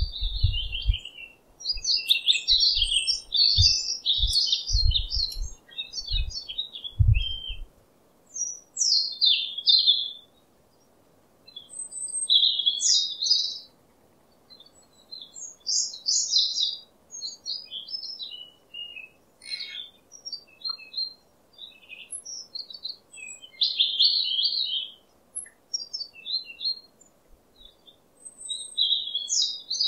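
Wild songbirds chirping and singing in short, quick phrases with pauses between them. Low thumps run under the birdsong for the first several seconds.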